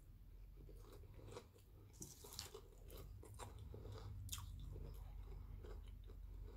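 Faint close-up chewing of a mouthful of potato chips, with irregular crisp crunches every second or so.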